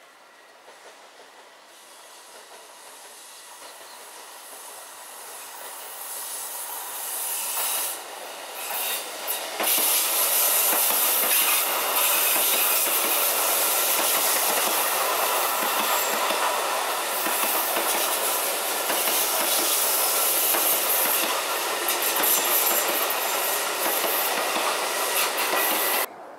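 Tokyo Metro 8000 series electric commuter train approaching round a curve and passing close by. It grows louder over the first ten seconds or so, then runs loud and steady with a fast clatter of wheels on the rails, until it cuts off suddenly near the end.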